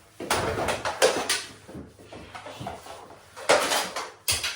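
Irregular clacks and knocks of plastic mini hockey sticks and a ball hitting each other and the floor during play, with scuffling, loudest about a second in and again near the end.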